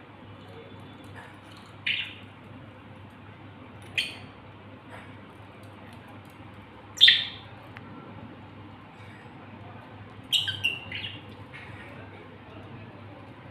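A budgerigar giving short, sharp chirps and squawks: single calls about two and four seconds in, the loudest around seven seconds, then a quick run of three or four calls later on, over a steady background hum.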